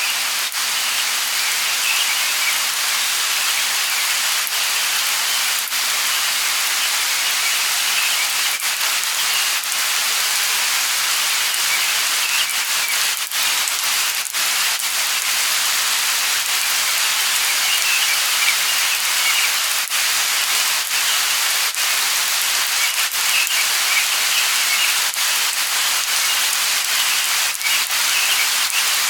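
Light rain falling steadily, an even patter of drops, with scattered high bird chirps over it.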